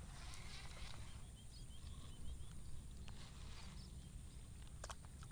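Quiet paddy-field ambience: a run of short, high chirps from a small animal, repeating a few times a second through the first half, over a low wind rumble. A couple of sharp clicks near the end.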